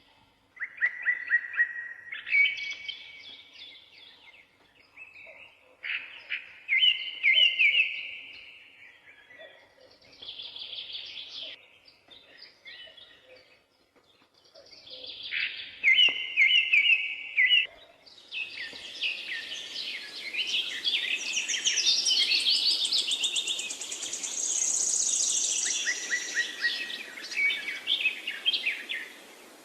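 Songbirds singing in short trilled phrases with brief pauses between them. About two-thirds of the way through, several birds sing at once, louder and higher, over a steady hiss.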